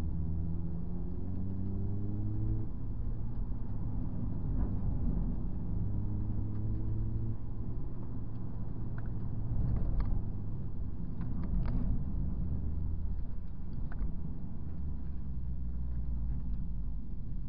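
Honda Civic Type R FD2's K20A four-cylinder engine heard from inside the cabin under hard driving, with a deep rumble throughout. Twice its revs climb and then cut off abruptly, once about three seconds in and once about seven seconds in. A few short clicks and knocks come around ten to twelve seconds in.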